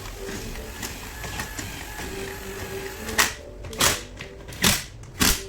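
Low clatter of work on gearbox parts, then about three seconds in a run of four sharp knocks, evenly spaced about two-thirds of a second apart.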